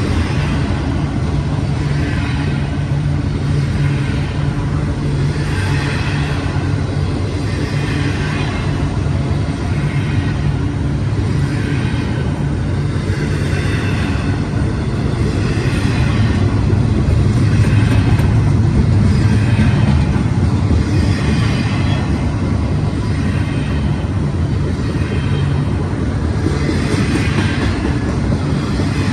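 Freight train rolling past with a steady low rumble, its wheels clattering over the rails in bursts that recur every couple of seconds.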